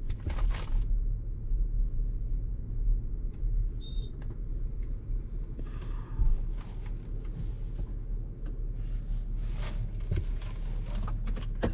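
Range Rover Autobiography standing still with its engine idling, a steady low rumble heard inside the cabin, with a few light clicks and knocks over it.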